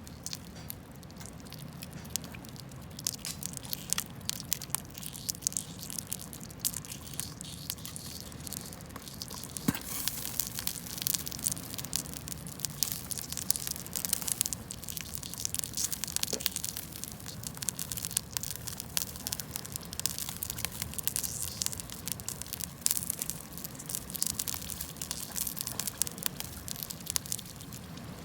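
Wood campfire crackling, with many sharp snaps and pops over a low steady hiss.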